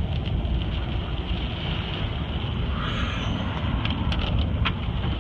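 Vehicle driving through a windstorm, heard from inside the cabin: a steady low rumble of engine and road with scattered sharp taps on top, which the driver takes for chunks of tree falling and hitting the vehicles.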